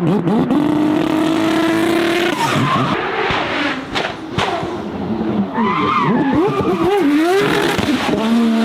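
High-performance car engine revving hard, its pitch swinging up and down and held high for a stretch near the start, with tyres skidding.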